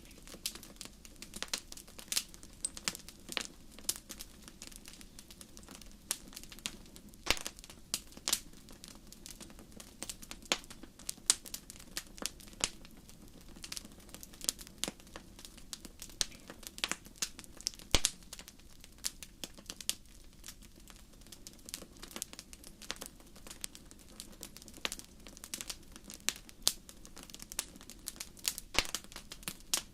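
Fire crackling: irregular sharp pops and snaps, unevenly spaced, over a faint steady low background.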